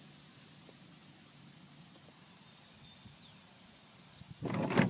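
A few faint clicks over a low hum, then near the end a chain-drive garage door opener starts up loudly with a rapid mechanical clatter.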